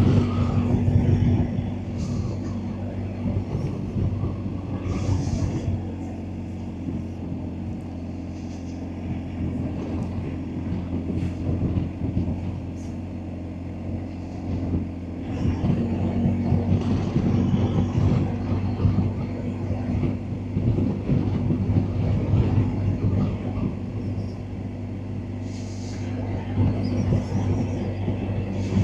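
BMW R1250GSA's boxer-twin engine running on the road, heard from the bike with wind rush. The engine note drops back a couple of seconds in and rises again about halfway through.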